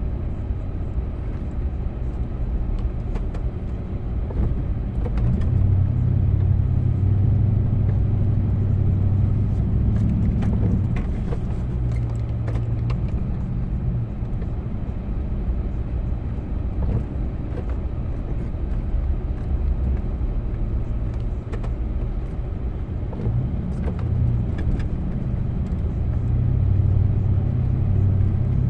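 A snowplow vehicle's engine running steadily under load, getting louder about five seconds in, easing off, then swelling again near the end, with scattered light knocks and scrapes.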